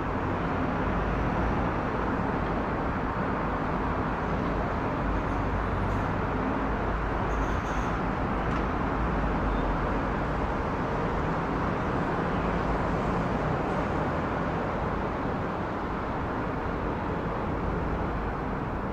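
Boeing 777-300ER's GE90-115B turbofan engines running with a steady, dense roar that eases slightly near the end.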